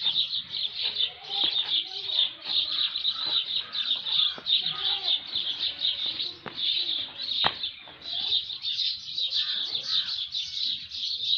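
Early-morning chorus of many birds, dense rapid high-pitched chirping that never stops, with scattered lower calls underneath. It thins out briefly about eight seconds in, and a few sharp clicks stand out, one at about seven and a half seconds.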